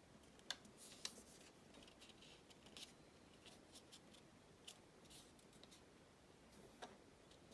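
Origami paper being folded and creased by hand: faint crisp rustles and scattered sharp ticks, the loudest two about half a second and a second in.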